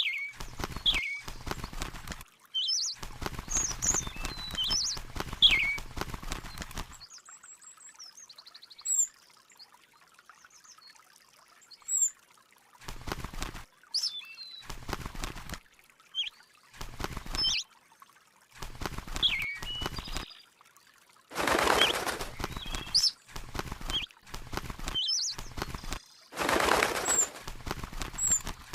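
A bird chirping in short, sweeping calls, again and again, over bursts of noise that start and stop abruptly, two of them louder near the end.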